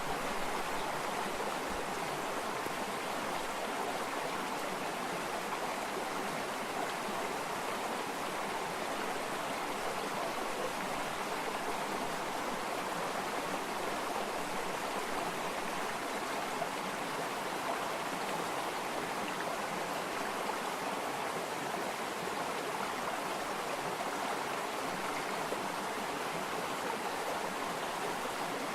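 Water flowing in a stream, a steady, even sound with no distinct splashes or changes.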